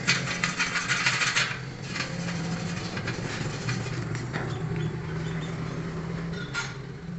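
Electric arc welding on angle iron: a dense crackle for about a second and a half, then a steady low hum with scattered small clicks and a short burst of crackle near the end.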